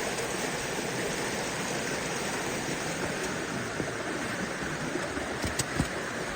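Creek water rushing steadily over rocks in a canyon, with a few brief knocks about five and a half seconds in.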